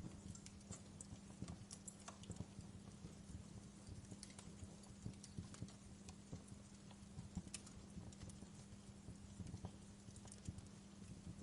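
Wood fire crackling in a fireplace: quiet, irregular pops and snaps, several a second, over a faint steady low hum.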